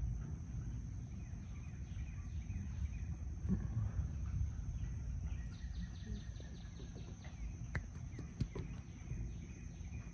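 Birds chirping outdoors, with a fast trill of quickly repeated notes about halfway through, over a steady low rumble.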